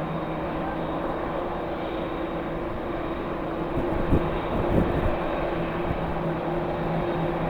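Jet airliner engines running steadily at a distance, an even rushing noise with a low hum, broken by two short low thumps about four and five seconds in.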